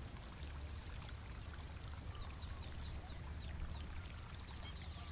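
A bird gives a quick run of about eight short, falling whistles a couple of seconds in, over a steady low rumble and a faint watery trickle.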